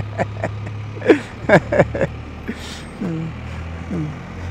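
Can-Am Spyder engine running steadily, a low drone, with a few brief murmured voice fragments over it.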